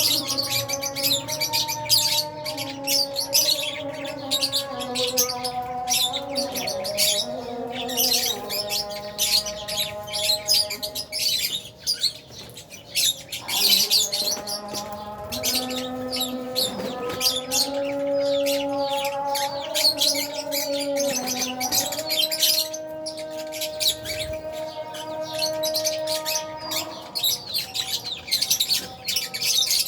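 A colony of lovebirds, albino and Fisher's, chattering with a constant stream of short high-pitched chirps and tweets that thins briefly twice. Soft background music with long held notes plays underneath.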